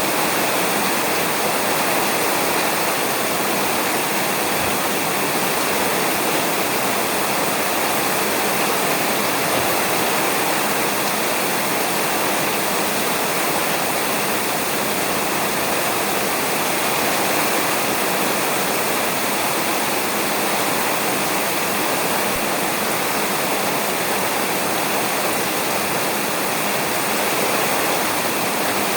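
Steady, heavy rain falling on a roof, a dense unbroken patter without thunder.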